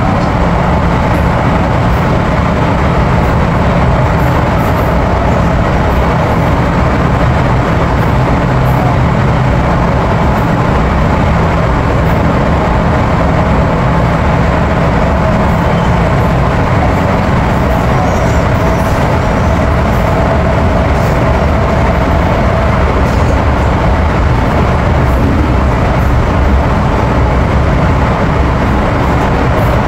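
Cabin noise of an MTR M-Train car running underground: a loud, steady rumble of wheels and running gear with a faint whine that rises slightly around the middle.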